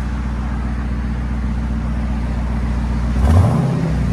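Jeep Grand Cherokee Trackhawk's supercharged 6.2L V8 idling steadily through a cat-back of two Borla Pro XS mufflers, X-pipe and 3-inch pipe with the rear resonator deleted, then revved with a sharp blip of the throttle about three seconds in.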